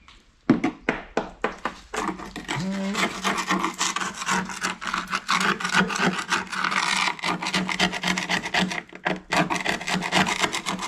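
Fast, repeated rasping and scraping strokes, as of hard material being rubbed or scraped. A steady low hum joins about two and a half seconds in, starting with a short rise in pitch.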